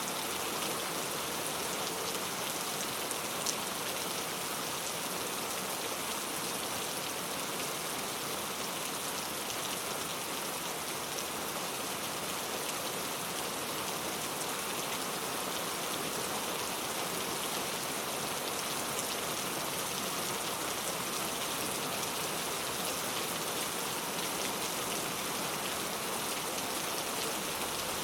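Steady rain falling and pattering on a surface, a dense even hiss of many small drop ticks, with one slightly sharper drop about three and a half seconds in.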